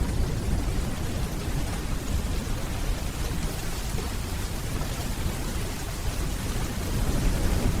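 Steady rainfall with the low rumble of distant thunder underneath, swelling slightly near the end.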